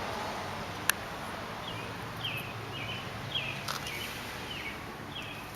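Steady outdoor background noise with a sharp click about a second in, then a run of short falling chirps, about two or three a second.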